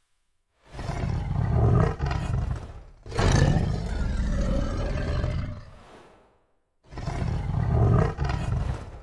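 Tiger roars as a cartoon sound effect: three long roars in a row, separated by short silent pauses.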